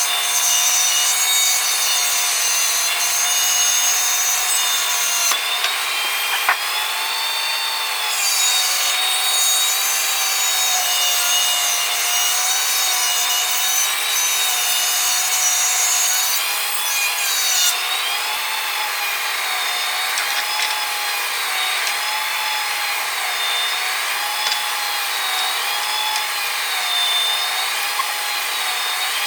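An electric power tool runs continuously under load with a whine over a steady rasp. Its pitch dips and recovers about once a second as the tool is worked back and forth.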